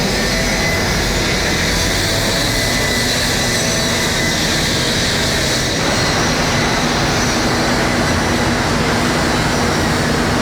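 A steady, loud machine drone, like a large engine running, with a few steady tones through it; its tone shifts about six seconds in.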